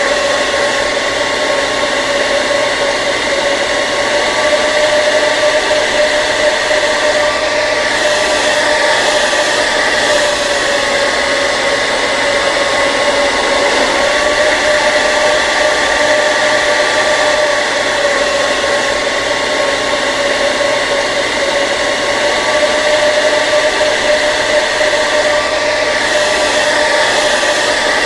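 Electric hair dryer running continuously: a steady rush of blown air over an unchanging motor tone.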